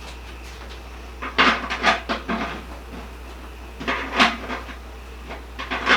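Metal pressure-canner lid clanking and scraping against the canner body as it is set on and lined up, in short clusters of knocks about a second and a half in, around four seconds in and again near the end.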